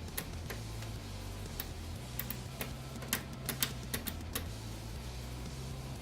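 A run of light, irregular clicks and taps, most of them bunched between about two and four and a half seconds in, over a low steady hum.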